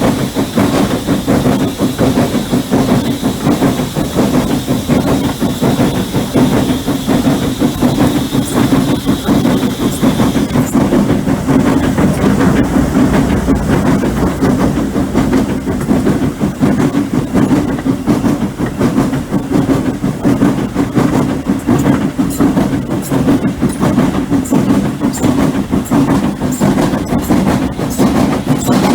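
Steam train hauled by a Hunslet 0-6-0ST saddle tank locomotive running along the line: a steady rumble with wheel clicks over the rail joints. A high steady hiss runs with it and stops about ten seconds in.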